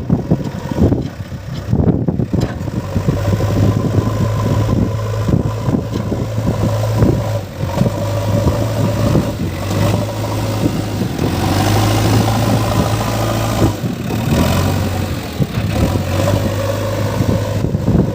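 Heavy diesel engine running steadily at low revs, its hum setting in about three seconds in, with wind noise on the microphone.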